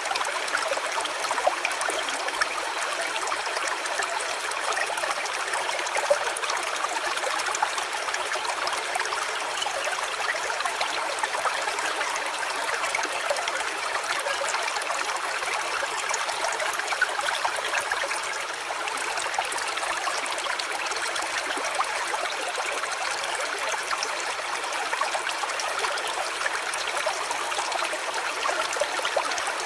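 A small stream running steadily, a continuous trickling of water.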